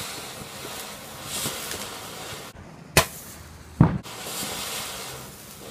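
Garden fireworks going off: a steady hiss of spraying sparks, broken about three seconds in by two sharp bangs less than a second apart, then the hissing again.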